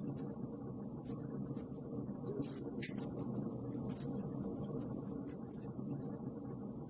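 Wood fire crackling, with frequent irregular sharp pops over a steady low rushing noise.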